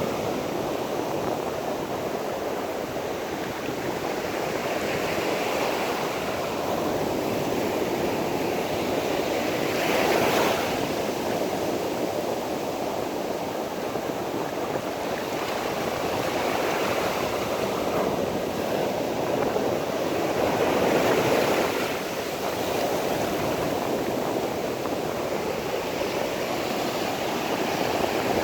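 Sea surf washing onto a shore: a steady rush of water that swells and eases every few seconds, loudest about ten and twenty-one seconds in.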